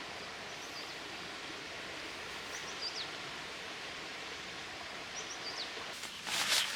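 Steady hiss of heavy rain falling, with three brief groups of short, high chirps from a small bird. A louder rustle comes near the end.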